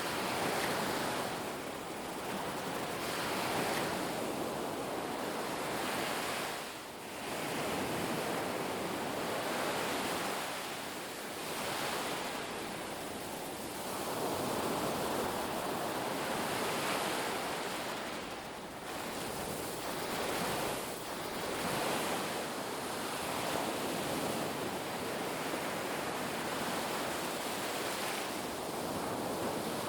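Ocean surf washing onto a beach: a continuous rushing wash that swells and eases every few seconds as waves break and run up the shore.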